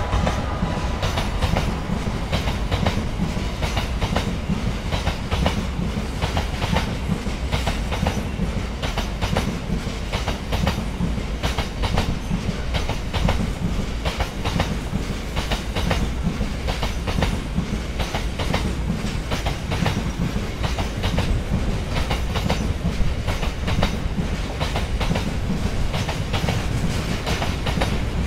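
Freight train of bogie tank wagons rolling steadily past, its wheels clicking and clattering continuously over rail joints above a low rumble.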